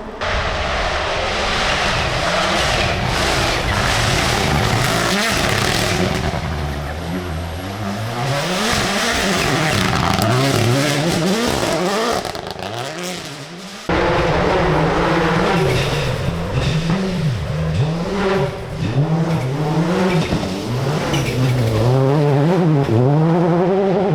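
Rally car engines at full throttle, the note climbing and dropping again and again as the drivers shift gears and lift. About halfway through the sound cuts abruptly to another car doing the same.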